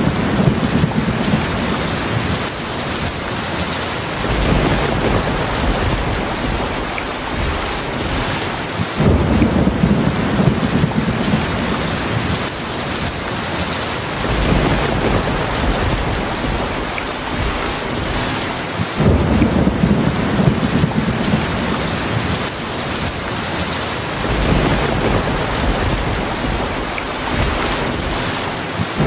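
Heavy rain falling steadily, with low rumbles of thunder swelling up about every five seconds.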